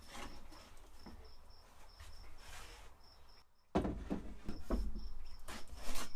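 A cricket chirping, short high chirps about three a second, over faint room noise. About two-thirds of the way through the sound drops out briefly, then louder knocks and rustling take over while the chirping carries on.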